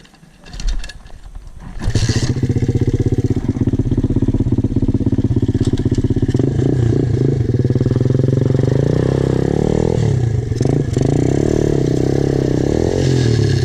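Pit bike's small single-cylinder engine. It comes in loud about two seconds in, after a few knocks, and runs steadily. It is revved up between about six and nine seconds, dips briefly, then holds at higher revs.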